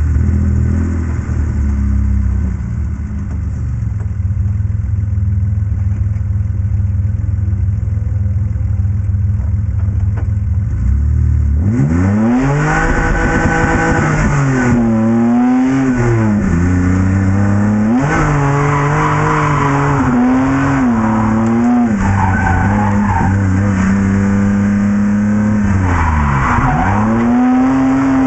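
BMW E30 drift car engine running at low, steady revs, then about twelve seconds in revving up and down in repeated swells as the car drifts, with tyres squealing.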